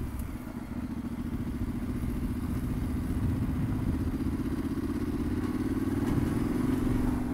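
Yamaha Ténéré 700 motorcycle's parallel-twin engine running steadily while riding, growing slowly louder.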